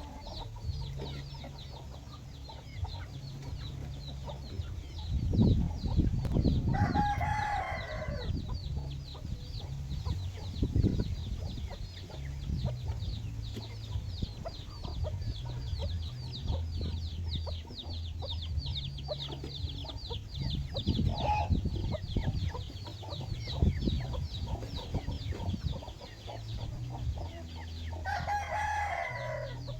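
Free-range chickens: a rooster crows twice, about seven seconds in and again near the end, over hens clucking and a fast, high chirping.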